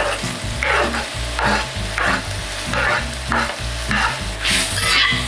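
Bacon and diced onion sizzling in a cast iron pot, with a metal spoon scraping in repeated strokes about twice a second as the onion is pushed in and stirred.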